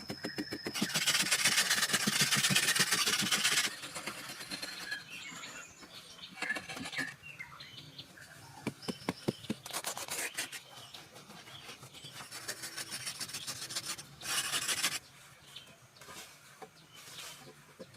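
Scraping and rubbing on wood, in a long noisy stretch about a second in and a shorter one near the end, with runs of small sharp knocks and taps between them.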